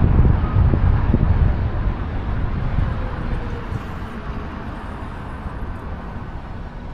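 Wind and road rumble on a car-roof-mounted camera while the car drives, a low steady noise that gradually fades over the seconds.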